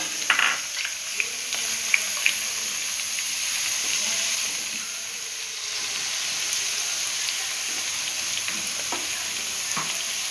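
Thinly sliced onions sizzling steadily in hot coconut oil in a pan, being sautéed, with a few sharp clicks of the stirring utensil against the pan.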